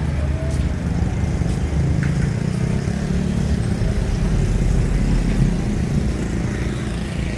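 Street traffic: car and motorbike engines running close by as a steady low rumble that swells a little around the middle.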